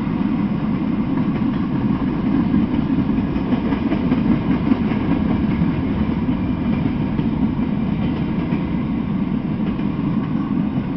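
Freight train of tank cars and flatcars rolling past, a steady rumble of steel wheels on the rails.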